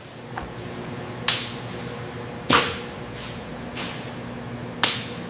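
Three loud, sharp cracking strikes with hissing tails, and a few fainter ones, spaced about a second apart over a steady low hum.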